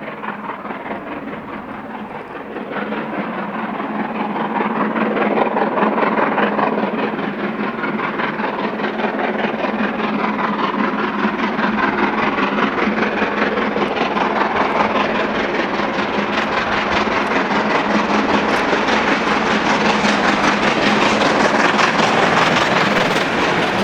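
Steam-hauled special train running through the station, its noise swelling a few seconds in and staying loud as it passes close by.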